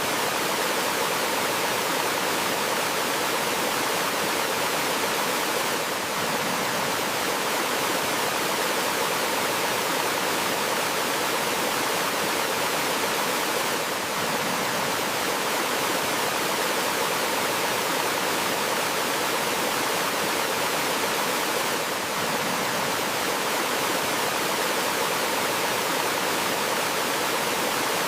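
Water flowing over rocks in a forest stream or small waterfall, a steady, even rush with no change in strength.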